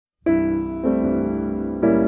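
Gentle piano music: after a brief silence a chord comes in about a quarter second in, and new chords follow at an unhurried pace, each fading before the next.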